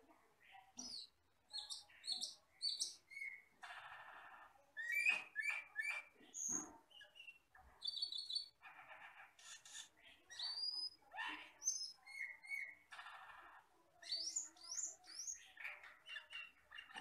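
Asian glossy starling (camperling, cucak keling) singing a continuous medley of short chirps and whistles, some sliding upward, broken by harsh buzzy rasps about a second long, three times.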